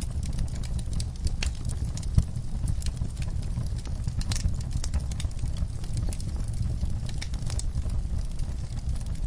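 Wood fire burning in a fireplace: a steady low rumble of flames with constant irregular crackling and small pops, and one louder pop about two seconds in.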